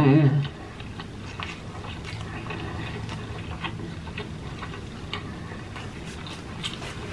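Close-miked chewing with the mouth closed: soft wet mouth clicks and smacks at irregular intervals. A drawn-out voiced hum from the eater dies away about half a second in.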